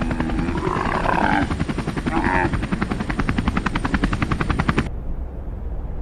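Helicopter rotor chopping rapidly and evenly, about ten beats a second, with two short wavering calls over it around one and two seconds in. The chopping cuts off about five seconds in, leaving a low, steady rumble of noise.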